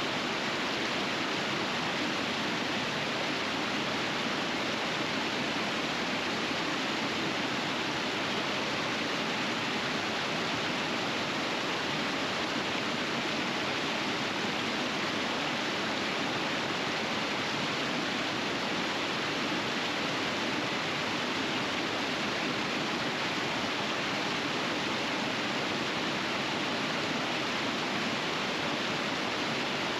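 River water rushing over rapids in winter: a steady, even rush with no breaks.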